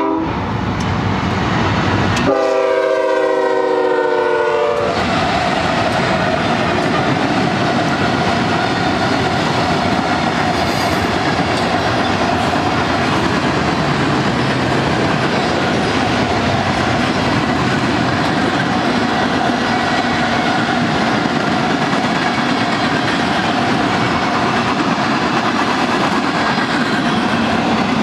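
BNSF freight train led by GE ES44DC locomotives passing close by: the locomotive horn sounds one chord blast lasting about two and a half seconds, a couple of seconds in, then the steady rolling clatter of freight-car wheels on the rails continues as the cars go by.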